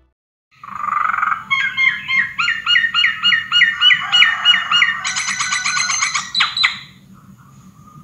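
Birds calling: a fast run of repeated chirps that slide downward, about three a second, quickening into a rapid high trill before stopping short.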